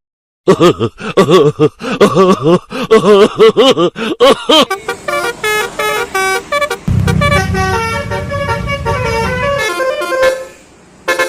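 Multi-tone 'telolet' bus horn playing a string of musical horn notes. The notes warble at first, then settle into steadier changing notes, with a low rumble underneath from about seven to nine and a half seconds in.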